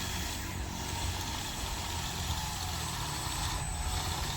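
An engine idling steadily: an even low rumble.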